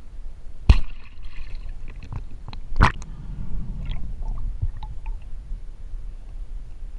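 Low, muffled underwater rumble with two sharp knocks, about a second in and near three seconds in, followed by a few fainter clicks.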